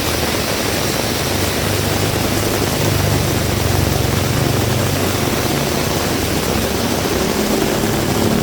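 Heavy rain falling steadily, with the low hum of a motor vehicle passing through the middle and another engine starting to be heard near the end.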